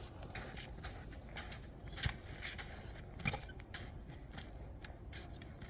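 Irregular crunches and knocks in frozen snow as a flag pole is worked in and set upright, with a sharper knock about two seconds in and another a little after three seconds.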